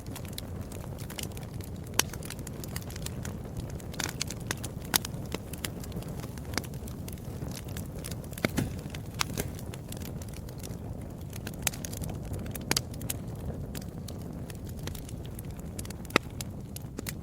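Wood fire burning in a fireplace: a steady low rumble of flame with sharp crackles and pops scattered throughout, a few louder snaps standing out, such as about two seconds in, around five seconds and near the end.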